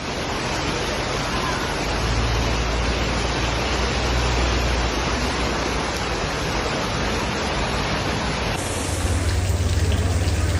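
Loud, steady rush of water from flash flooding and torrential rain. The character changes abruptly about eight and a half seconds in, where a second flood clip begins.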